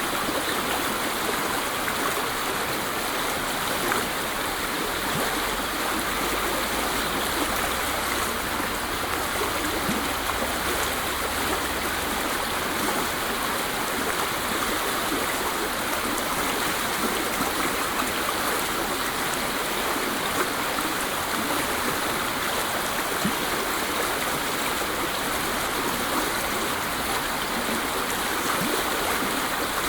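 Waterfall: falling water rushing in a steady, unbroken hiss, with small splashing detail and no change in level.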